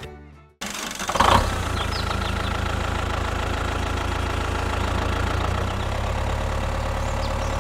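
Engine of a mini construction machine idling steadily, starting about a second in just after a short clunk.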